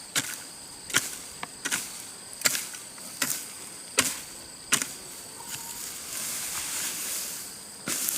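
A hand tool's blade chopping into grassy soil in steady strokes, about one every three-quarters of a second, breaking off into a few seconds of rustling scraping before one more strike near the end. Insects trill steadily throughout.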